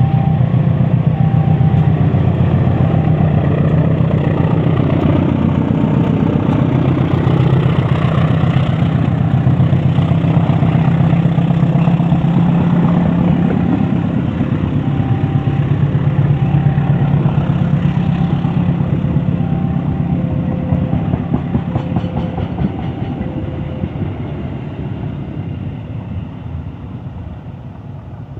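CC201 diesel-electric locomotive running loud and close, its diesel engine pulsing fast and heavy, then fading steadily over the second half as it moves away. A faint two-note tone repeats in the background.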